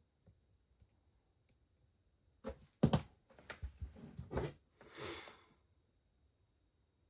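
A cluster of clicks and knocks from tools and parts being handled on a workbench, followed by a short hiss.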